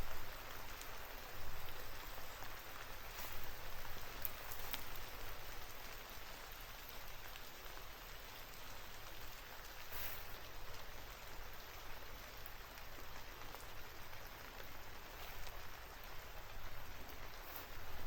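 Steady rain falling, an even hiss with a few sharper drop hits close by, about 4, 10 and 17 seconds in.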